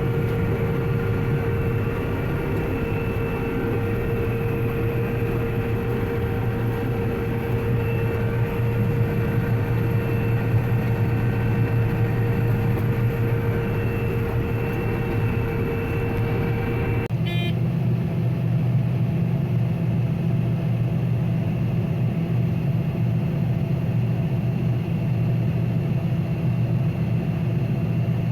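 Combine harvester running steadily while cutting wheat: a constant engine drone with a whine over it. About two-thirds of the way in the sound changes abruptly, the whine dropping out and a deeper hum taking over.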